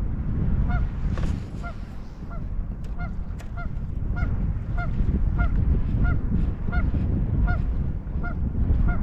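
A short, squeaky honk-like sound repeating very evenly about twice a second, over a steady low rumble.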